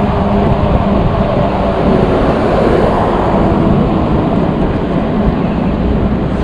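Wind rushing over the microphone of a camera riding on a moving e-bike, a steady loud rumble, with a low steady hum under it that fades out about two seconds in.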